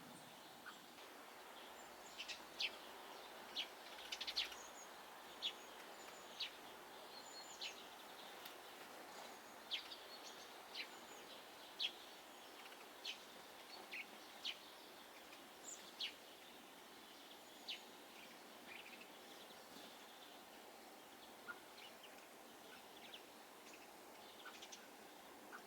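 Small garden birds giving short, sharp, high calls at irregular intervals, sometimes several in quick succession, over a faint steady background hiss.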